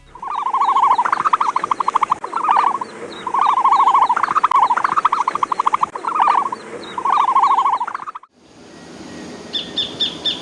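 Bird calls: loud, repeated rapid trills, each phrase a quick run of pulses, for about eight seconds. They cut off abruptly and give way to quieter background with a short burst of high chirps near the end.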